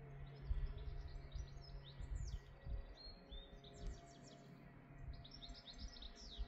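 Songbird singing: a fast, high, twittering song in several phrases with short pauses between them.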